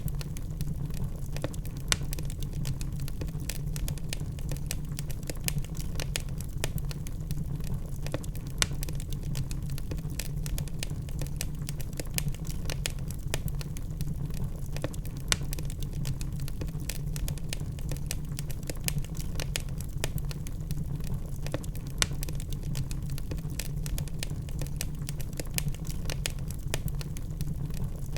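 Log fire crackling in a fireplace: frequent sharp snaps and pops over a steady low rumble of the flames.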